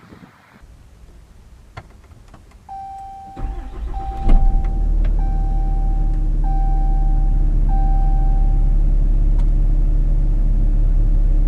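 A few clicks, then the truck's warning chime beeps five times. Meanwhile the 2013 Ram 3500's 6.7-litre Cummins inline-six turbo diesel cranks and catches, then settles into a steady idle.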